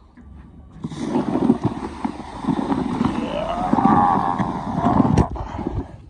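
A vehicle going past, loud for about four seconds and cutting off sharply, with a rising whine partway through.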